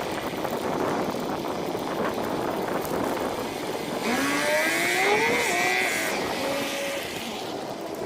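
Wind buffeting the microphone of a moving bicycle, with a motor vehicle's engine rising in pitch as it passes about four seconds in.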